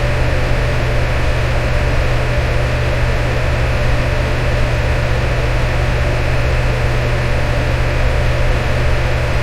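Electric fan running steadily: an even rushing of air over a strong low hum, with no change in speed.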